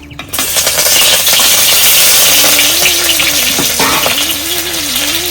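Food sizzling as it fries in hot oil in a pan. It starts suddenly about a third of a second in, then keeps up a loud, steady sizzle.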